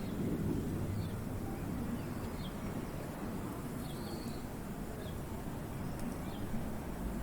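Small birds chirping sparsely, short high notes about once a second, over a steady low rumble of outdoor ambience.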